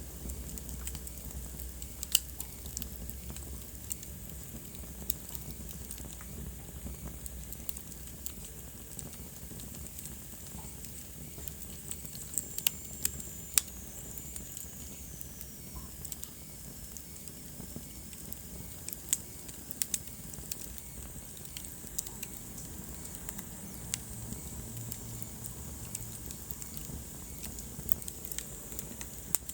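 Wood fire crackling in a fireplace: irregular sharp pops and snaps over a low steady rumble, with a few louder pops. A faint high whistle slides down in pitch about midway.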